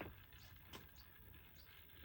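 Near silence with faint, irregular clicking from a small garden-railway locomotive running on its track.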